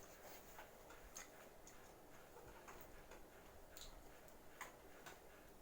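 Near silence with faint, irregular mouth clicks and smacks of someone chewing pizza.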